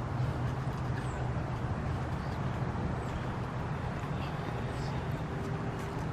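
Steady outdoor background rush, as of traffic or rain, with a few faint, short bird chirps scattered through it.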